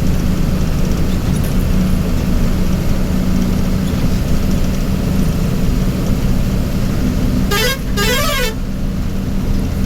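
Vehicle engine running steadily. About seven and a half seconds in, a multi-tone musical horn sounds for about a second, its pitch sweeping up and down twice.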